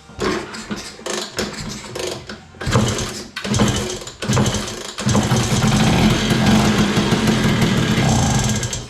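LML scooter's two-stroke engine being started after a rebuild: several short, uneven bursts as it is kicked over, then it catches about five seconds in and runs unevenly before cutting off abruptly at the very end.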